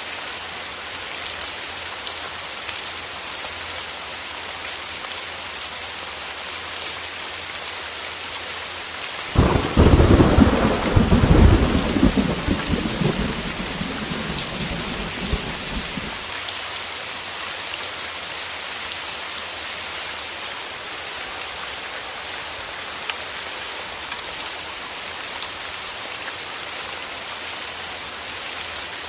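Heavy rain hissing steadily against a window, with one clap of thunder about a third of the way in that rumbles for a few seconds and fades out.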